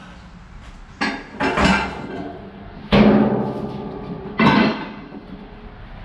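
Metal scrap clanging: four loud clanks and bangs, the sharpest about three seconds in, leaving a fading metallic ring.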